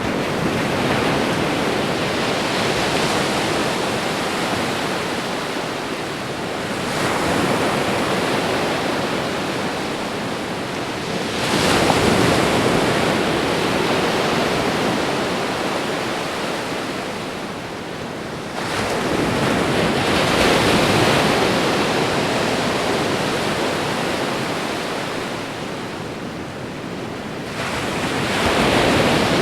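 Ocean surf: waves breaking in a steady rush that surges and ebbs, with a fresh break roughly every seven seconds.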